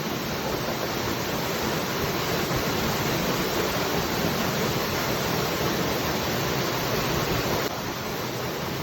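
Waterfall: steady rushing of falling water, with a slight drop in level near the end.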